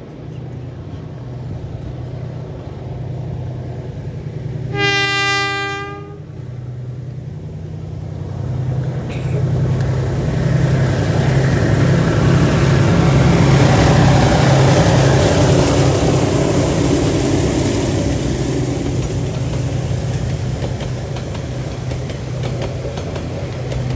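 Two DJ-class diesel-electric locomotives hauling a passenger train. One horn blast comes about five seconds in. Then the engines grow louder as they pass, and the carriages roll by with their wheels clicking over the rail joints.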